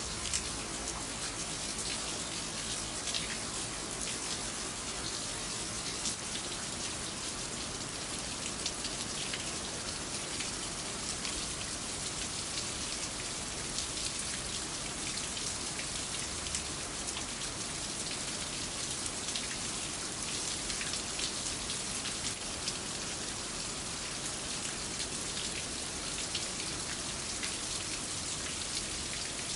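Steady rain falling, with many small drops ticking close by. In the first few seconds the low hum of a large struck bell dies away under it.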